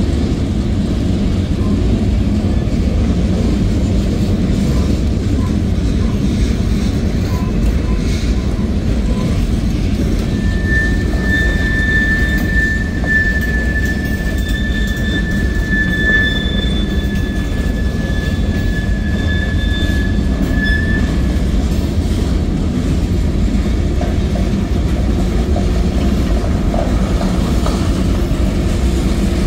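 Boxcars of a CSX manifest freight train rolling past with a steady, loud low rumble of wheels on rail. About a third of the way in, a thin high wheel squeal sets in, holds for about ten seconds and then fades out.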